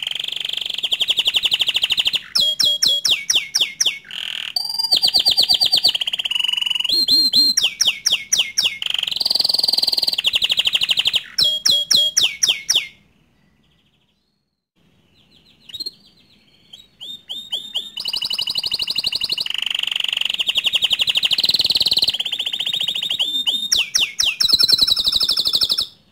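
Bottle-green domestic canary singing: long rapid trills and runs of quick downward-sweeping notes. The song breaks off for a few seconds about halfway, then starts up again.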